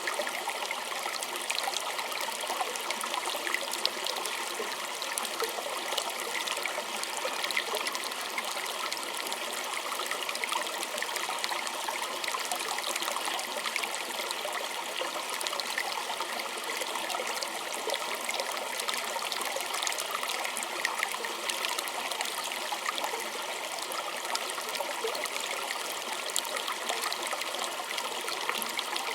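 Small creek flowing and trickling over stones, a steady splashing babble without letup.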